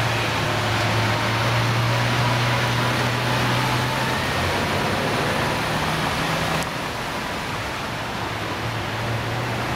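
Lamborghini Aventador's V12 engine running steadily at low revs as the car rolls slowly away, over a steady hiss of street noise. The sound changes abruptly about two-thirds of the way in.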